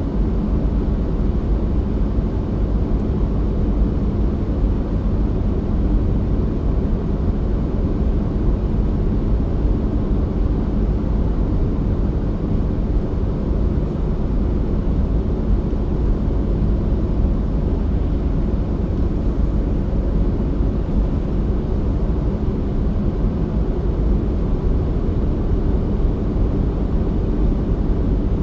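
Steady low rumble of a car driving on a winter road: tyre, road and engine noise, even and unchanging throughout.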